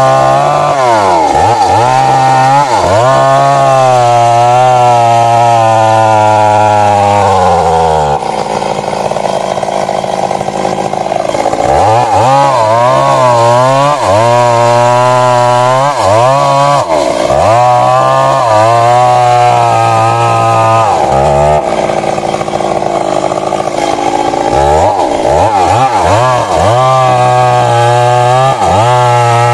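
Stihl MS 382 two-stroke chainsaw running at high revs and cutting wood. Its pitch repeatedly sags and recovers as the chain loads up in the cut, and it turns rougher and slightly quieter twice, around a third of the way in and again about three quarters through.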